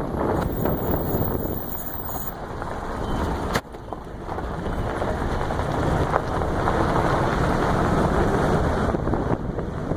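Wind buffeting the microphone: a loud, uneven rumble that rises and falls in gusts, broken by a click and a short dip about a third of the way in.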